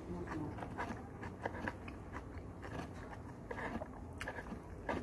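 A person chewing food close to the microphone, with irregular short clicks and mouth sounds, and a metal spoon scooping food from a paper lunch box.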